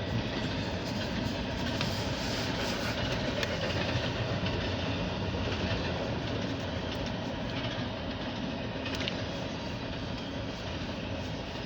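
CSX intermodal double-stack freight train rolling past: a steady, continuous noise of steel wheels on the rails, with a few faint clicks.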